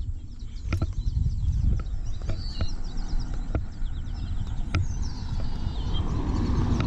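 Birds chirping in quick runs of short, high, down-slurred notes over a steady low rumble of wind and handling on the microphone, with a few sharp knocks.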